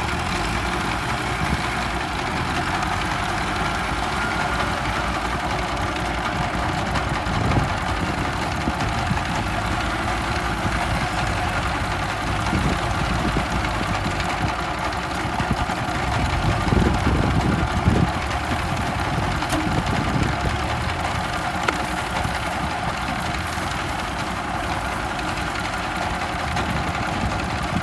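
Tractor's diesel engine running steadily while plowing, a little louder for a few seconds about two thirds of the way through.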